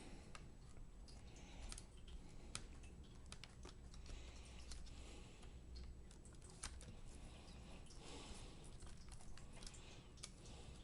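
Faint, irregular light clicks and taps from small plastic laptop parts and cables being handled.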